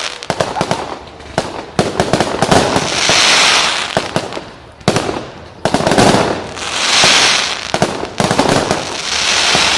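Fireworks display: a rapid, irregular series of sharp bangs from bursting shells, with swells of loud hiss about three, six and nine seconds in.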